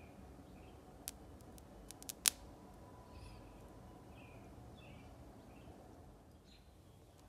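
Faint scattered chirps, like those of a small bird, over quiet room noise. There are a few sharp clicks about one and two seconds in, and the last of them is the loudest.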